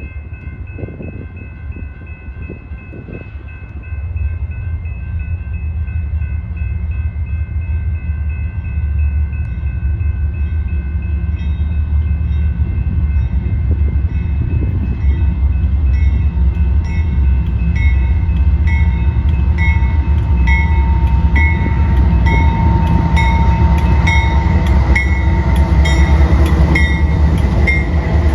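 A train approaching and passing close by: a low rumble that builds steadily, with a regular clicking of wheels over rail joints that grows louder and faster over the second half.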